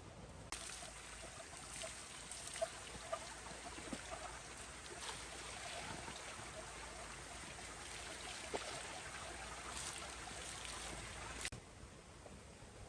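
Water running or pouring steadily, with small clicks and splashes, starting suddenly about half a second in and cutting off about eleven seconds later.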